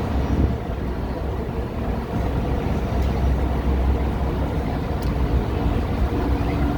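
Parking-lot tram's engine running with a steady low rumble.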